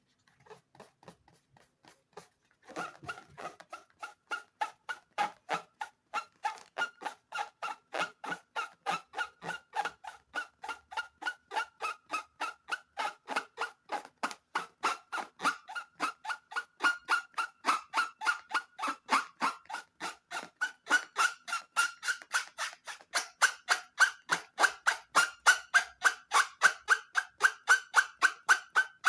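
Rubbery squeaking in a fast, even rhythm, each squeak a short high honk-like tone, about three to four a second. It starts a few seconds in and grows louder over the second half.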